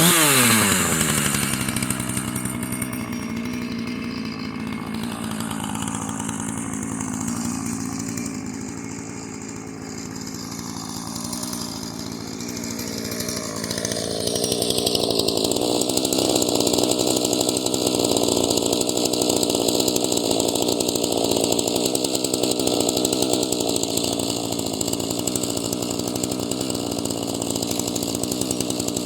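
Husqvarna chainsaw running. Its engine note drops right at the start and runs steadier and quieter. About halfway through it gets louder and fuller and holds there.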